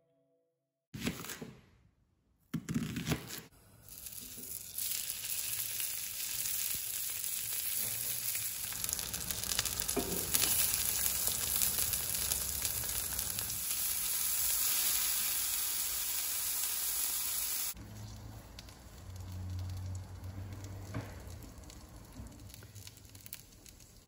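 Burger patty and sliced onion frying on a hot cast-iron griddle plate, a steady loud sizzle. It sets in a few seconds in, after a couple of short noises, and turns much quieter about three-quarters of the way through.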